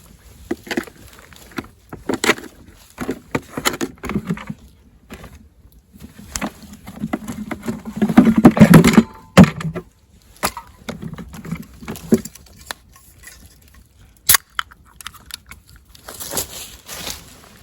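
Irregular clicks, taps and short rustling handling noises of camp tableware and utensils, with a louder, busier stretch about eight seconds in and one sharp click near fourteen seconds.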